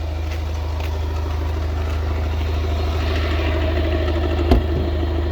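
A flood-damaged BMW F10 520d xDrive's 2.0-litre four-cylinder diesel engine idling steadily, judged in very good running condition, with one sharp knock about four and a half seconds in.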